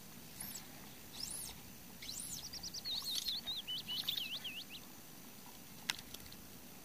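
A songbird singing: several high whistled notes that rise and fall, then a quick warbling run of notes about two to five seconds in. A single sharp click sounds near the end.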